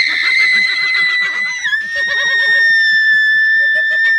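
A person's long, high-pitched scream of fright, held at nearly one pitch for over four seconds and dipping slightly after about a second and a half.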